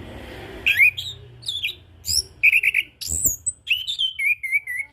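Chestnut-capped thrush (anis kembang) singing: starting just under a second in, a fast, varied run of clear whistled notes, quick up-and-down sweeps and short repeated chips, in short phrases with brief gaps.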